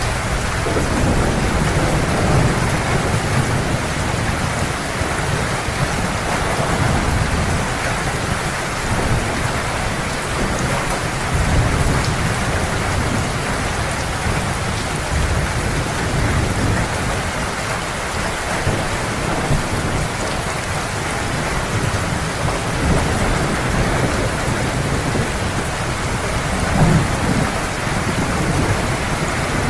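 Heavy, steady rain with thunder rolling low underneath, swelling and fading.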